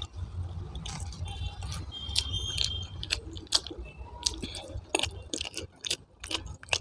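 A person eating close to the microphone: chewing with many short wet mouth clicks, over a low steady hum.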